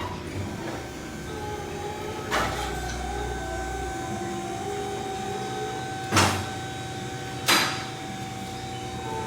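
Three sharp knocks, the last two close together, over a steady background hum with a held tone.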